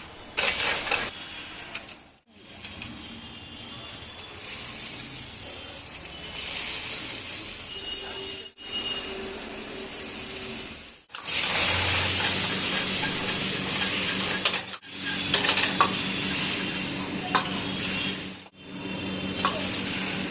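Chicken momos sizzling as they are pan-fried, with a metal spatula stirring and clattering against the pan, in several short cuts. A steady low hum joins in about halfway through.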